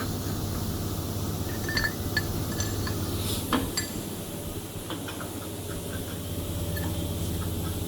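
Light metallic clinks and taps from metal hardware being handled, clustered between about two and four seconds in, over a steady low hum.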